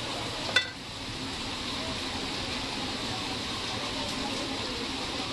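Sliced vegetables sizzling in a steel wok over a gas burner while being stir-fried with a wooden spatula, with one sharp metallic clang about half a second in.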